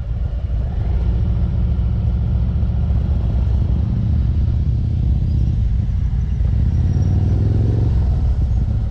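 Motorcycle engine running with a steady low rumble, its pitch rising for a couple of seconds near the end as it picks up speed.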